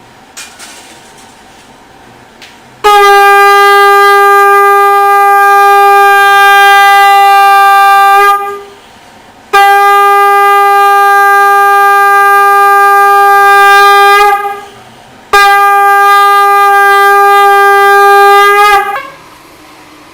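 Conch shell (shankha) blown in three long, loud, steady blasts, each one held for several seconds and dipping slightly in pitch as it ends.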